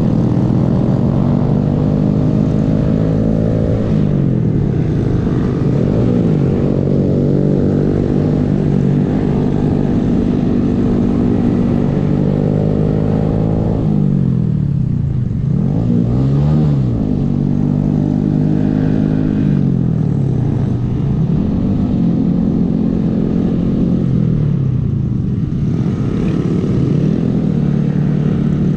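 A 125 cc single-cylinder Honda motorcycle engine under way. It repeatedly revs up and drops in pitch as the rider shifts through the gears, easing off and accelerating again about halfway through. A steady low rumble of wind runs under the engine.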